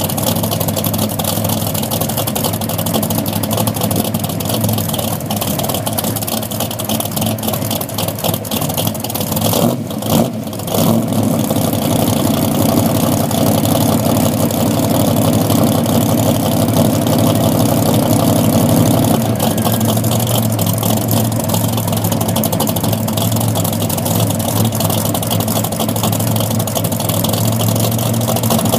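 A car engine running, with a brief break about ten seconds in, then running louder for about eight seconds before settling back to a steadier note.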